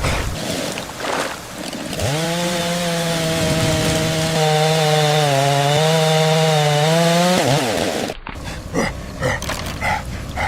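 A small engine or motor running steadily at high speed for about five seconds, its pitch wavering slightly, then falling away as it winds down. Scattered clicks and knocks follow.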